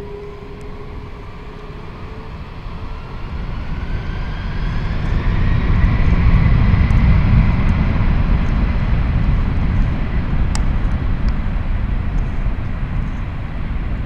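Jet engines of an Air Canada Boeing 767-300ER spooling up: a whine that climbs in pitch over the first few seconds, then a deep, loud rumble that builds about four to six seconds in and holds steady.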